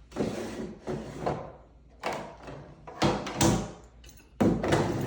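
A door or cabinet door being handled: five or six clunks and rattles as it is opened and shut, the loudest about three seconds in and again near the end.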